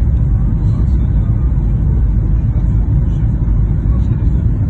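Steady low rumble inside an airliner cabin during landing: engine and airflow noise, even throughout with no distinct events.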